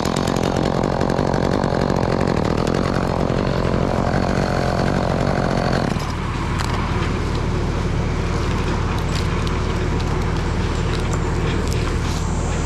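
Engine of tree-work machinery running steadily after a chainsaw's rev falls away, with scattered knocks. The sound shifts about six seconds in.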